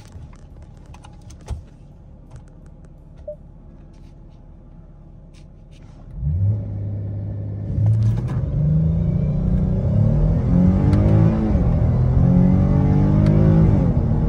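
Dodge Charger's 3.6-litre V6 on its stock exhaust, heard from inside the cabin, accelerating hard from a standstill. It is quiet for about six seconds, then the engine revs up and pulls with rising pitch. The pitch drops twice near the end as the transmission upshifts.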